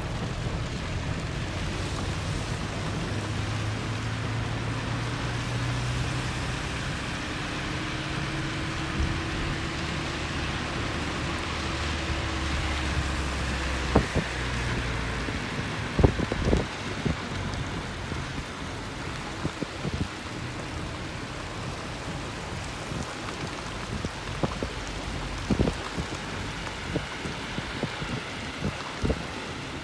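Steady hiss of rain and wet tyre noise heard from inside a car driving along a flooded road, with a low engine hum in the first half and a few sharp knocks from about halfway on.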